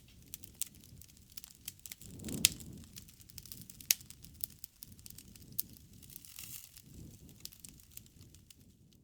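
Wood campfire burning: a low rush of flames with frequent sharp crackles and pops. The biggest pops come about two and a half seconds in and again around four seconds.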